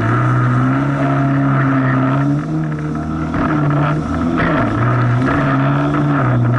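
Jet ski engine running under way, its pitch dipping briefly and picking up again a few times, over a steady rush of noise.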